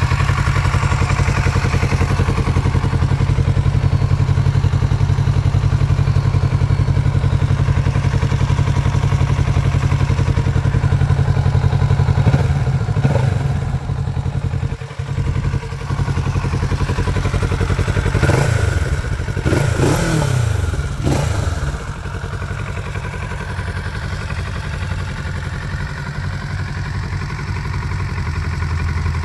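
Kawasaki Z650RS's 649 cc parallel-twin engine idling steadily, with a few knocks and a brief rise and fall in engine pitch about two-thirds of the way through.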